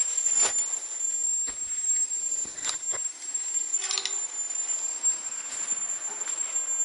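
Scattered sharp clicks and knocks, a few of them close together about four seconds in, over a faint hiss and a steady high-pitched whine.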